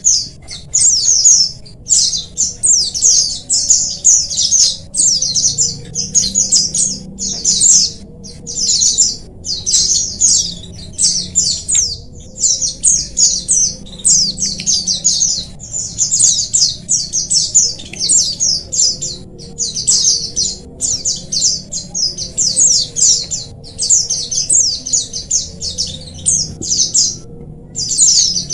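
A colony of white-eyes (pleci) chirping and twittering together: a dense, almost unbroken stream of quick high chirps with only short pauses.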